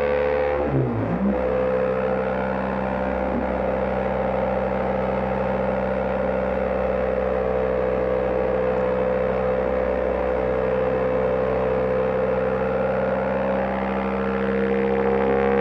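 BMW GS Adventure motorcycle engine running at a steady cruising speed, heard from on the bike with road and wind noise, its pitch dipping briefly and coming back up about a second in.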